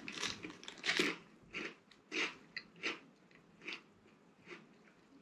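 Arnott's TeeVee Snacks Malt Stick, a chocolate-coated malt biscuit stick, being chewed: a string of crisp crunches, about one every two-thirds of a second, growing fainter as the biscuit breaks down.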